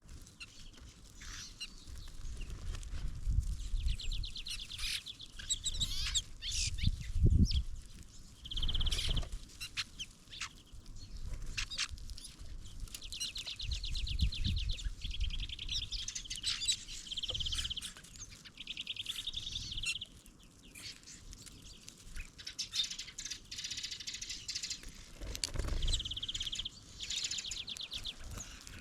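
Small songbirds at a feeder calling, with repeated fast, even trills in several bouts of a second or two, mixed with short chirps and clicks. Intermittent low rumbles come and go underneath.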